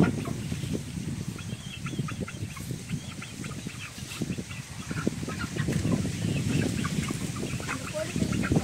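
Birds calling in many short, scattered clucking notes over a steady low rumble.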